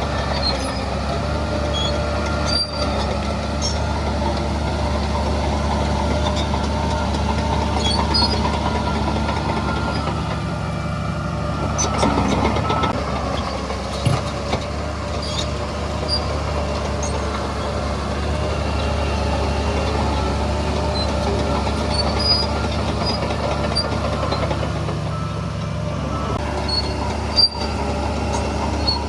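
Heavy diesel earthmoving machinery running steadily under load, with a brief rise in engine speed about twelve seconds in and a few short knocks.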